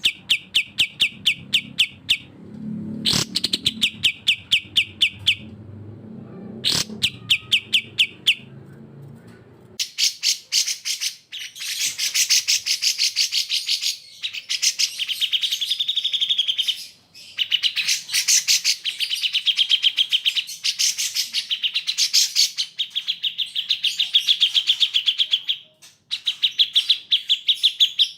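Songbirds singing: the cucak jenggot and kapas tembak bulbuls of a bird-training recording. For the first ten seconds or so there are rapid trills in short bouts over a low hum. Then a longer, busier chattering song runs with only brief breaks.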